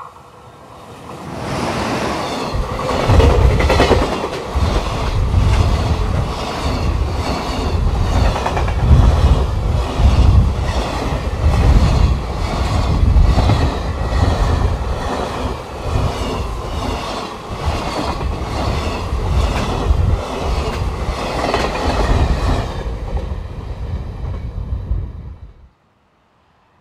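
Freight train passing at speed behind a JR Freight electric locomotive: the locomotive's approach builds up, then a long string of container flat wagons runs by with a steady, rhythmic clickety-clack of wheels over the rail joints. The sound cuts off suddenly near the end.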